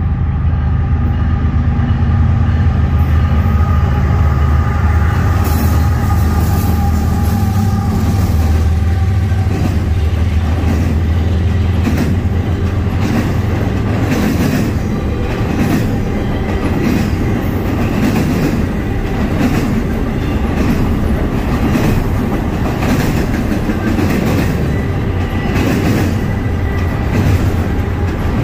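A Norfolk Southern freight train passing close by. For the first several seconds the diesel locomotives' engines drone, with a faint whine that fades about nine seconds in. The freight cars then roll past, their wheels clacking over the rail joints.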